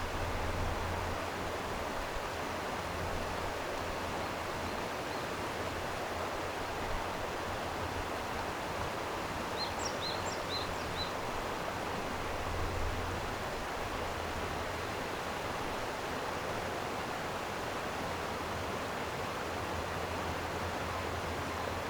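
Steady rush of flowing stream water, with a bird giving a few short high chirps about halfway through.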